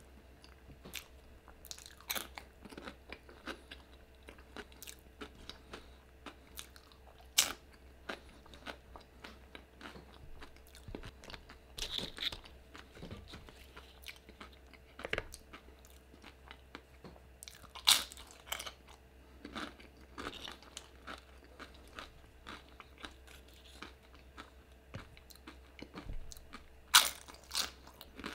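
Tortilla chips being bitten and chewed: a dense run of crisp crunches throughout, with a few louder bites standing out about seven, eighteen and twenty-seven seconds in.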